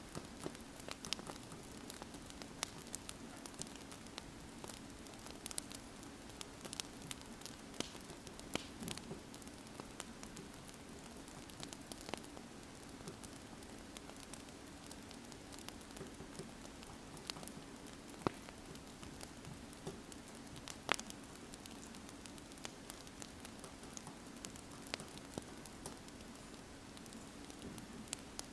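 Wood fire crackling: irregular sharp pops and snaps scattered over a steady soft hiss, with a faint low hum underneath.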